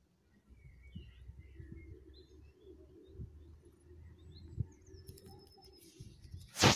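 Small birds chirping over a low, uneven rumble, with a short loud burst of noise just before the end.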